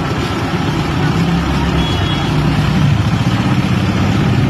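A motor vehicle's engine running steadily amid street traffic, a continuous low rumble.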